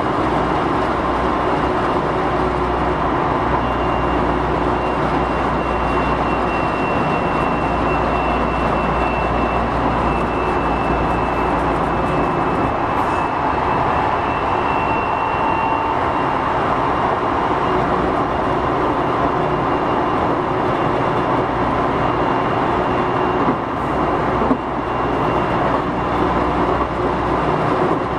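Eidan 6000 series electric commuter train running at speed, heard from inside the car: a steady rumble of wheels on the rails with faint steady whining tones from the traction equipment, and a couple of knocks near the end.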